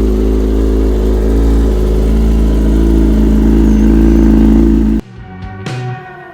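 Kawasaki 636 motorcycle's inline-four engine running at steady revs with a slight rise in pitch partway through. About five seconds in it cuts off abruptly and is replaced by music with drums.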